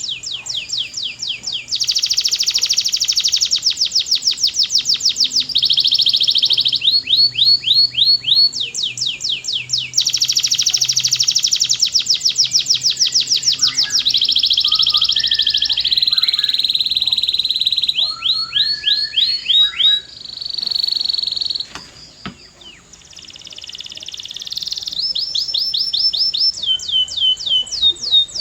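A canary singing a long, loud song made of fast runs of repeated whistled notes, each falling in pitch, changing from one trill to the next every second or two. The song breaks off briefly about two-thirds of the way through, then builds back up.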